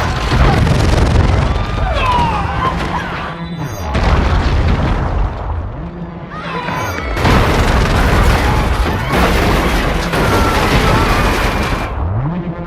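Film sound effects for the alien World Engine's gravity weapon firing: heavy, deep booming swells that hit suddenly at the start, about four seconds in and about seven seconds in. Between the swells, a low pulsing tone slides down and back up.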